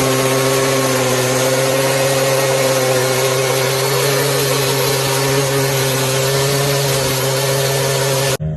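An engine running at a steady, unchanging speed with a loud buzzing drone, cut off abruptly near the end.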